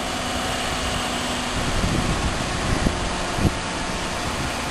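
Mobile crane's engine running steadily, with a few brief low knocks about two, three and three and a half seconds in.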